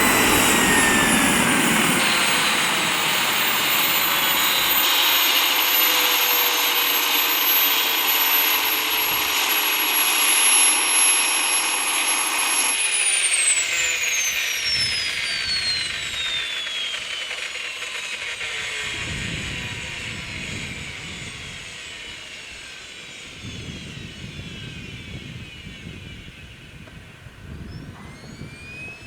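Wren twin-shaft turbine engine of a small RC helicopter running with a high-pitched whine. About 13 seconds in, its pitch starts falling steeply and keeps falling as the turbine spools down and fades. Near the end, a brief whine rises and falls again.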